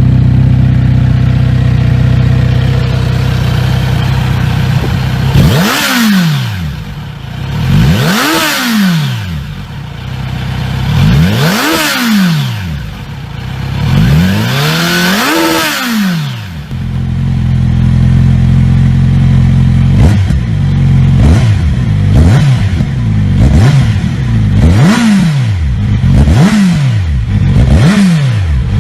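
Kawasaki Z900RS inline-four motorcycle engine with an aftermarket exhaust, idling steadily and then revved four times, each rev a slow rise and fall in pitch. After a short return to idle come about eight quick, sharp throttle blips in a row.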